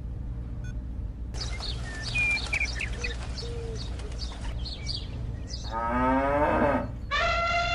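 Cattle mooing twice: a rising-then-falling moo, then a higher, longer one held near the end. Before the moos, birds chirp in short bursts, all over a steady low hum.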